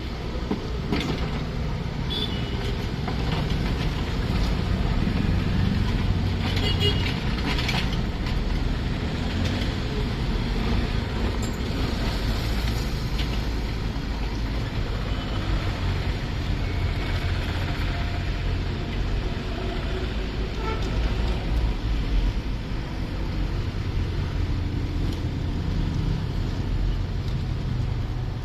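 Mini excavator's engine running steadily while it works, with a few short knocks about a second in and around seven seconds in.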